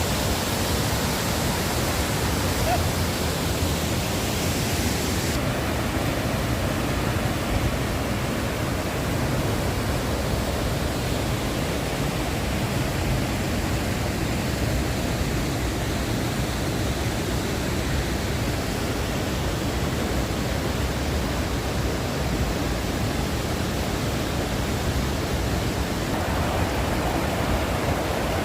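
Bad Gastein waterfall: a steady, unbroken rush of falling water. The high hiss of it thins suddenly about five seconds in.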